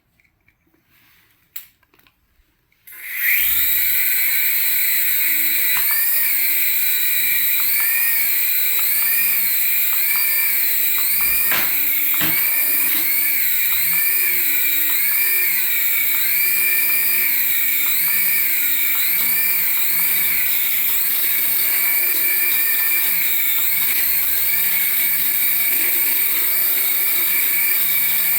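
A remote-control toy's small electric motor starts up about three seconds in and runs with a loud, high-pitched whine. Its pitch rises and falls in a regular wave about once a second.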